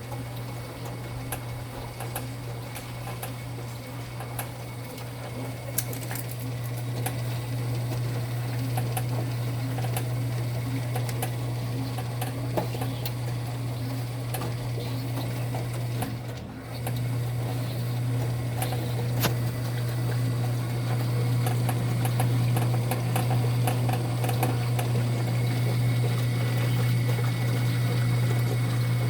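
Enxuta Junior 2 kg compact washing machine running: its motor hums steadily under a churning, water-like wash. The hum dips briefly a little over halfway through, then comes back slightly louder.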